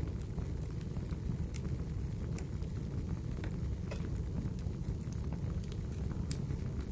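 Wood fire crackling in a fireplace, with irregular sharp pops and snaps a few times a second over a steady low rumble of flames and rain.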